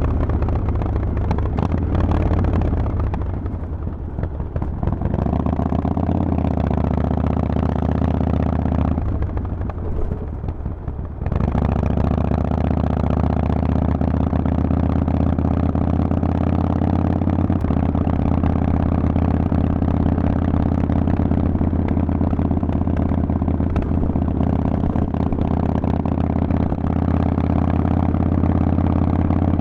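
Harley-Davidson Forty-Eight's air-cooled V-twin running through a Vance & Hines exhaust while riding. It eases off twice in the first ten seconds, then pulls at a steady pitch.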